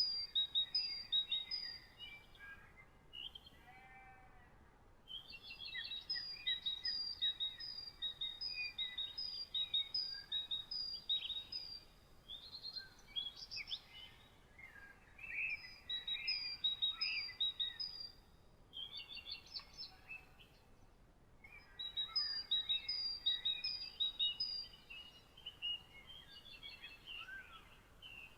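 Songbirds singing in a morning chorus: bouts of rapid, high repeated chirps and trills a few seconds long, broken by short pauses, over a faint steady background hiss.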